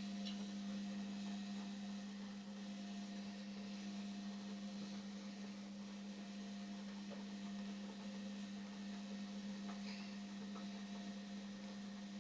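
Indesit washing machine running mid-wash, giving off a steady electrical hum with a strong low tone and fainter tones above it.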